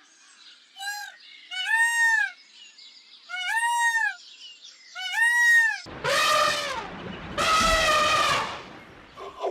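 Bleating: four short, high, rising-and-falling bleats, then two louder, harsher, drawn-out bleats starting about six seconds in.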